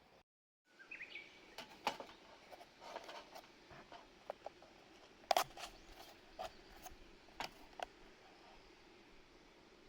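Scattered light clicks and knocks at irregular intervals, the loudest about five seconds in, over faint background noise, with a short rising bird chirp about a second in.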